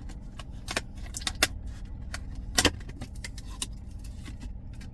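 Plastic takeout sushi container being opened: a few sharp plastic clicks and crackles, the loudest about two and a half seconds in, over a steady low hum.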